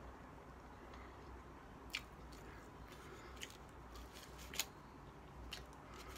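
Faint close-up chewing of a mouthful of chicken burrito, with a handful of short sharp mouth clicks and smacks at irregular intervals over a low steady hum.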